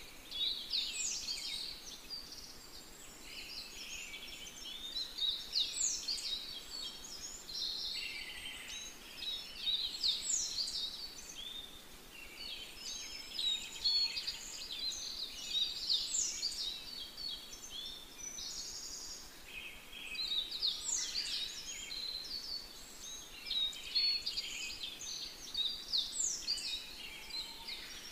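Songbirds chirping and twittering without a break, with a phrase ending in a falling whistle that comes back about every five seconds.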